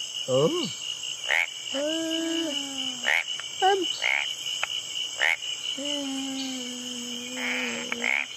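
Recorded frog calls: sharp hiccup-like clicks about once a second, mixed with longer pitched croaks, the longest near the end, over a steady high-pitched drone.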